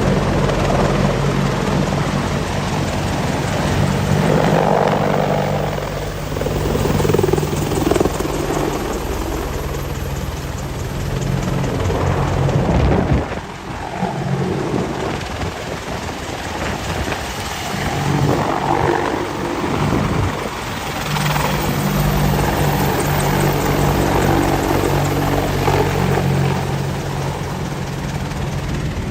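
AH-64 Apache attack helicopter flying low, its rotor beating steadily. The sound swells and fades as it manoeuvres, with a brief drop about 13 seconds in.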